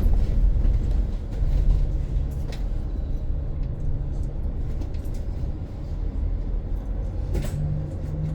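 Inside a battery-electric BYD BD11 bus on the move: steady low road rumble with a faint hum, and a few light rattles.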